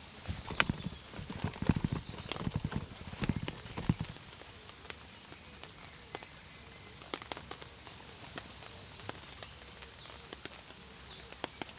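Rain pattering, with scattered drop clicks over a steady hiss. A quick run of low knocks and thumps fills the first four seconds.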